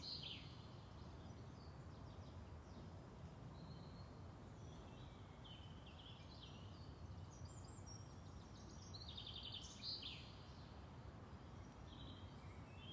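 Faint birdsong: a few short chirps and rapid trills from small songbirds over a low, steady outdoor background noise.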